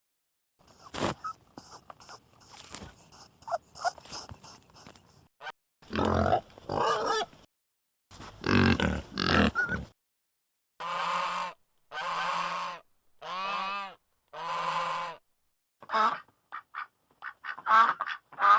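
A succession of animal calls: scattered clicks and snorts, then loud low grunts, then four long, even honking calls of about a second each. Short quacking calls follow near the end.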